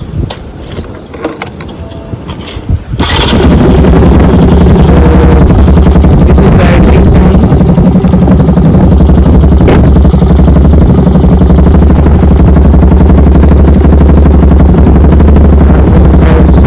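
Yamaha FZS V3's 149 cc single-cylinder engine, breathing through a full-system SC Project aftermarket exhaust, starting about three seconds in and then idling loudly and steadily with a deep exhaust note.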